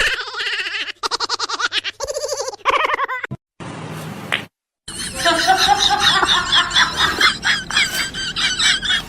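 Laughter in quick rapid pulses through the first three seconds. After a brief break, a busy run of short, high chirping calls.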